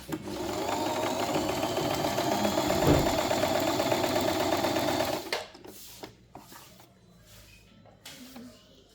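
Singer M3205 electric sewing machine running steadily as it sews a zigzag stitch, with a short knock about three seconds in. It stops about five seconds in, and faint handling sounds follow.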